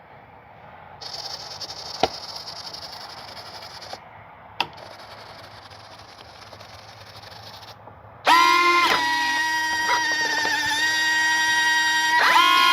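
Electric retract landing gear of an RC Corsair cycling, one leg binding somewhere in its travel: two high whirring runs of about three seconds each, each ending in a sharp click. From about eight seconds in, a much louder steady pitched buzz takes over.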